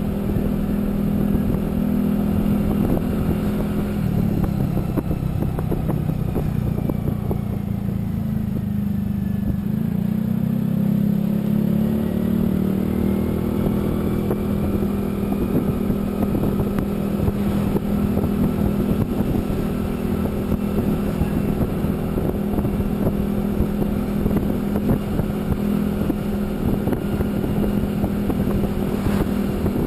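Motorcycle engine running under way on a road. Its pitch drops about four seconds in as it slows, then climbs again as it speeds back up, over steady road and wind noise.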